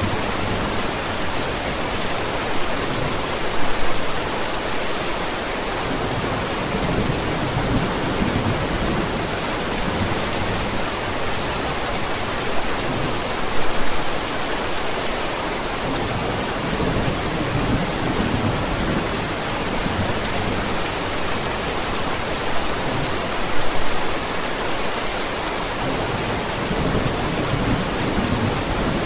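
Steady heavy rain with low, rolling rumbles of thunder. A brief louder burst of sound comes about every ten seconds.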